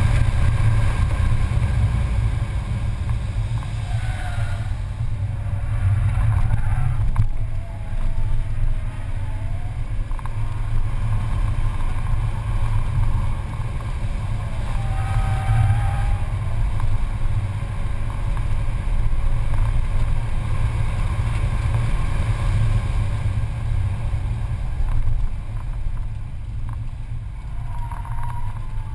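Mercedes-Benz C280's engine running hard at track speed, heard from inside the cabin as a steady low drone mixed with road and wind noise.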